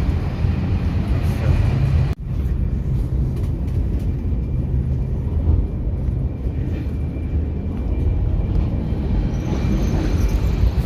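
Steady low rumble of a train, with a brief dropout about two seconds in.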